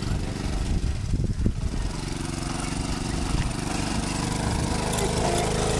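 Small dirt bike engine running steadily, its level creeping up slightly toward the end.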